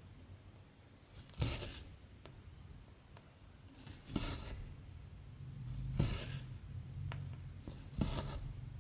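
Embroidery thread being pulled through cross-stitch fabric with a needle, a short rasping swish four times, roughly every two seconds, over a faint steady low hum.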